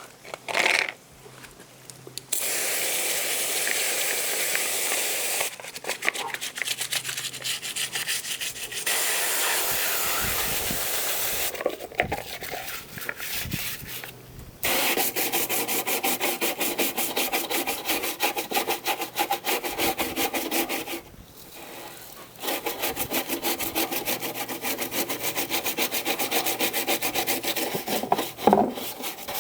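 Brisk scrubbing, a brush or pad rubbed rapidly back and forth over a surface, in several long spells with short pauses between them.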